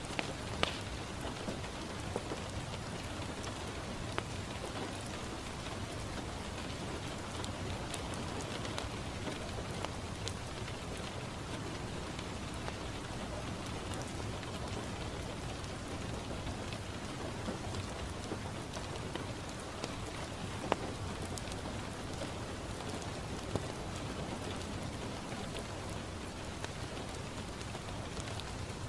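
Steady rain falling on a window, a constant even hiss, with a few scattered sharp pops from a crackling wood fire in the fireplace.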